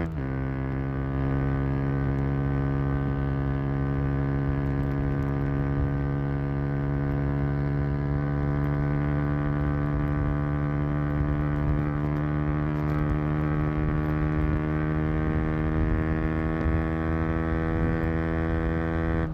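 KTM Duke 125's single-cylinder four-stroke engine heard through its exhaust under way: just after a sudden drop in revs, the note holds steady and climbs slowly in pitch as the bike pulls in one gear.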